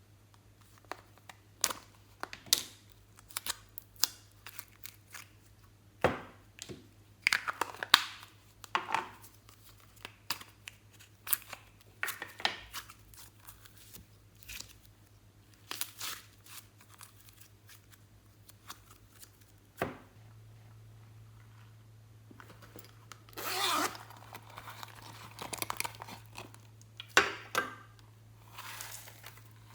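Glossy slime being pressed, stretched and mixed by hand: irregular sticky clicks and pops, with longer crackling stretches about a quarter of the way in and again near the end, over a low steady hum.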